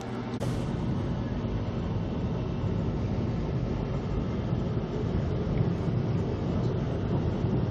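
Steady rumble and rolling noise of VIA Rail's Canadian passenger train running along the track, heard from inside the car. A single sharp click comes about half a second in.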